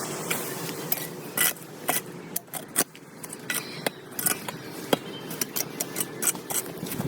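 Hard objects clinking and knocking together irregularly, many short sharp taps over a faint steady background hum.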